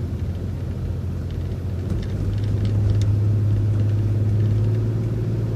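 City transit bus engine running, heard from inside the bus: a steady low hum that grows stronger and a little louder about two seconds in.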